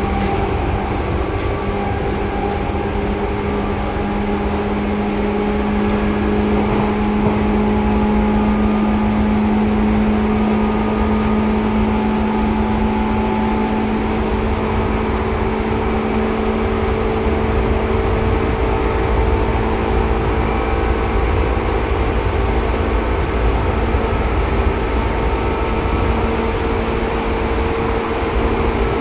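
Seibu 2000 series electric train (set 2051F) running on the line, heard from inside the car: a steady rumble of wheels on rail under a motor hum with a couple of steady tones, the higher one climbing slightly in pitch in the second half.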